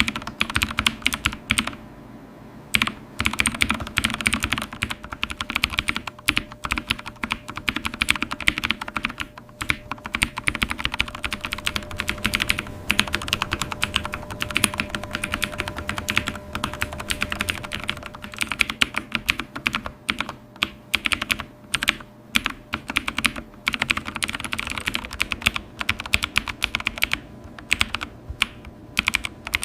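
Computer keyboard being typed on fast and continuously: dense, rapid key clicks with a few brief pauses, and a faint steady hum underneath.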